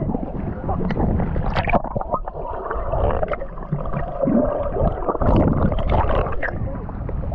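Seawater sloshing and gurgling close to the microphone as a swimmer bobs in the waves, with scattered irregular clicks and knocks.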